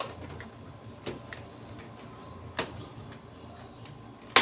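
Plastic shell of a PlayStation 3's case being fitted back together, giving three sharp clicks. One comes about a second in, one about two and a half seconds in, and the loudest comes near the end.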